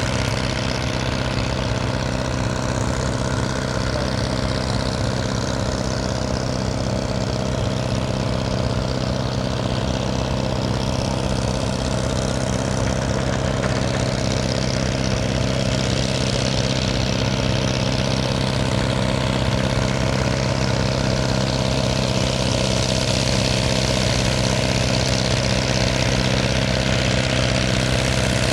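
Diesel tractor engine running steadily at a constant speed, a low drone that grows slightly louder in the second half.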